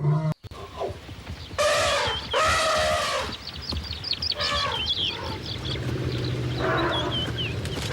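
Chickens calling: two loud drawn-out calls about two seconds in, then a run of many short, high cheeps.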